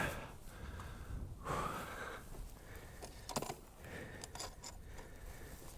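A person breathing hard, with long breathy exhales, after the effort of walking a dirt bike out of soft sand. There are a few light clicks and rattles of gear around them. The motorcycle engine is already off.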